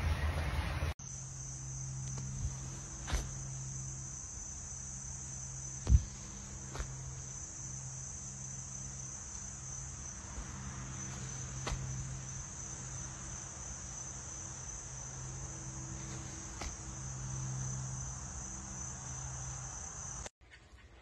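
Crickets trilling steadily at a high pitch, over a low hum that comes and goes. A few knocks, the sharpest about six seconds in.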